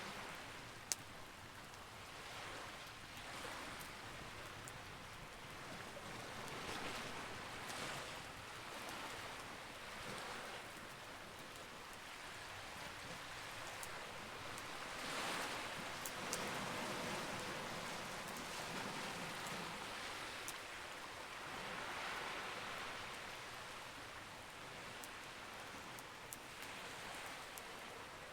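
Wood campfire burning with a few sharp crackling pops, over a rushing hiss that swells and fades every few seconds.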